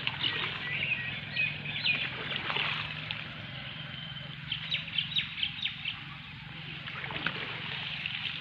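Many birds chirping and calling in short, quick notes, over a low steady hum.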